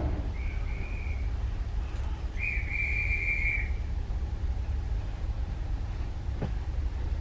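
Two high whistle blasts, a short one and then a longer, louder one, over the low steady rumble of the train.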